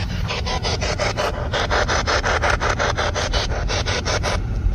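Spirit box sweeping through radio stations: a fast, even chatter of static bursts, about eight to ten a second, over a low rumble.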